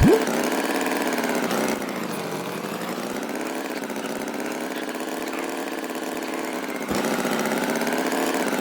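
A small engine running steadily with a droning hum. It drops in level about two seconds in and comes back up near the end.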